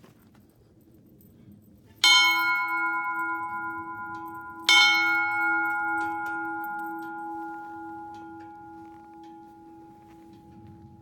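A metal bell struck twice, a little under three seconds apart, each stroke ringing on in several steady tones that slowly die away.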